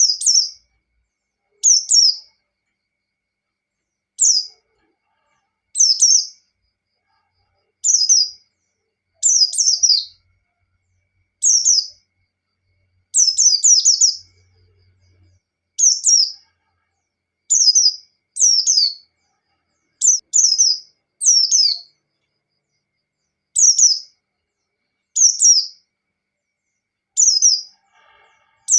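A white-eye (pleci) singing its 'ngalas' song: short, high, quick warbled phrases that sweep downward, repeated every one to two seconds, about seventeen in all. It is the kind of song played to provoke other white-eyes into singing.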